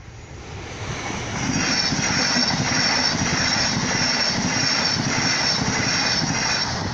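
Class 700 electric multiple unit passing over a level crossing at speed. The noise builds over the first couple of seconds, holds steady with an even pulsing of about two beats a second, and drops away near the end as the train clears.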